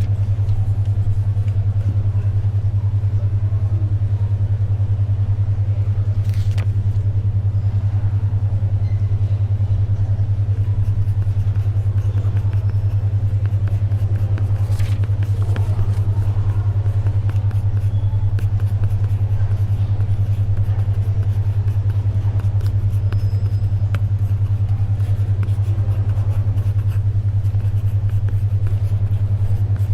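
A steady low hum near 100 Hz, pulsing rapidly and evenly: a 10.2 Hz alpha brainwave beat tone. Beneath it is faint library ambience, with a couple of brief paper rustles like pages being turned.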